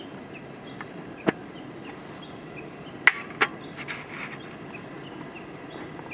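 A few sharp clicks or knocks, three in all, the loudest about three seconds in, over a steady outdoor background with faint high chirps from insects.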